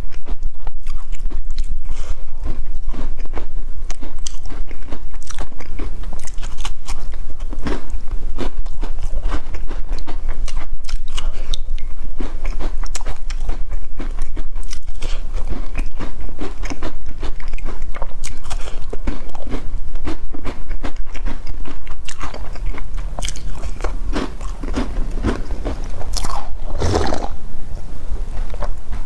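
Close-miked biting and chewing of crisp sesame-seeded biscuits, many short sharp crunches one after another. Near the end there is a longer, louder slurp from a bowl of milk.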